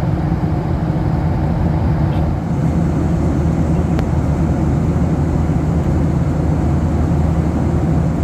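Steady cabin noise inside a Boeing 737-800: an even, loud low rumble of engines and air with no change in pitch, and one faint tick about four seconds in.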